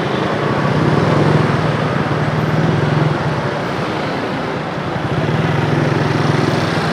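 Busy street traffic of motorbikes and cars passing close by. The engine hum swells twice as vehicles go past.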